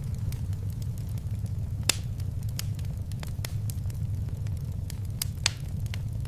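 Fire crackling in a fireplace: irregular sharp pops and snaps over a steady low rumble, with the loudest pops about two seconds in and near the end.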